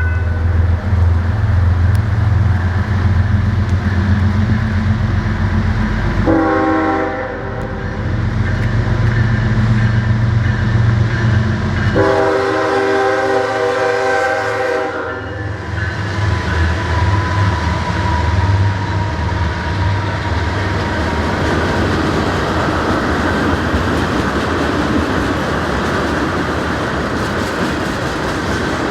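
Norfolk Southern diesel freight train passing close by: heavy locomotive engine rumble, a short chord on the multi-chime air horn about six seconds in and a longer one about twelve seconds in, then the cars rolling past with steady wheel-on-rail noise.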